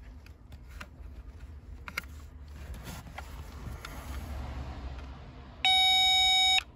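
A few faint handling clicks, then one steady electronic beep about a second long near the end from a circuit tester probing the blown OBD fuse's circuit. The technician reads the result as a short in that circuit.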